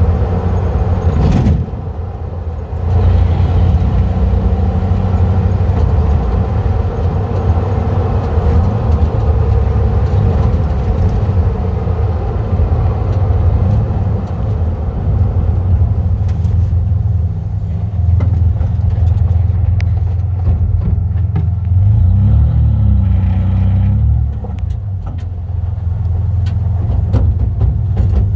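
Exhaust drone of a 1995 Ford F-150's 4.9-litre 300 inline-six with the muffler deleted, the pipe cut off behind the catalytic converters and ending under the cab, while the truck is driven. A deep, steady rumble that dips briefly about two seconds in and rises and falls in pitch near the end, as the engine speed changes.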